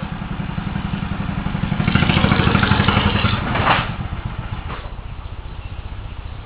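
Old tractor's engine running with a fast, even pulse, growing louder about two seconds in and dropping back down a little before the four-second mark.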